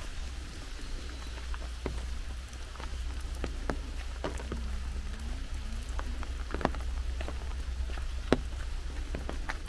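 Rain falling steadily, with irregular single drops tapping close by.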